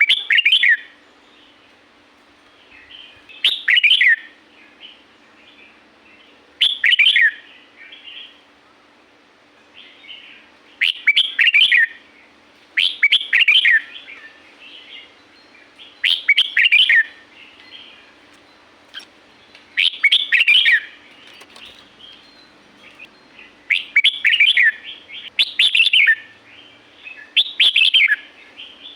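Red-whiskered bulbul singing short, bright warbled phrases, about ten of them, one every few seconds. A faint steady low hum lies underneath.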